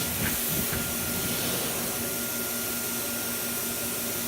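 Handheld blow dryer running steadily: an even rush of air with a faint, steady whine.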